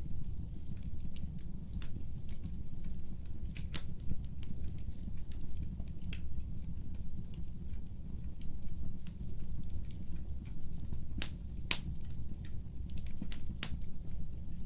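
Fire in a fireplace crackling: irregular sharp pops and snaps over a steady low rumble, with a few louder pops about four seconds in and twice around eleven to twelve seconds.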